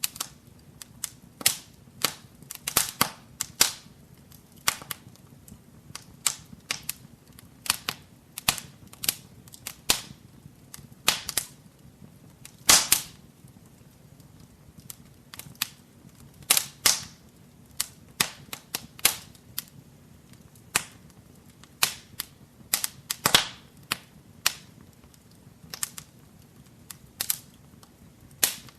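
Wood fire crackling in a fireplace: irregular sharp pops and snaps, some much louder than others, over a faint steady low hiss.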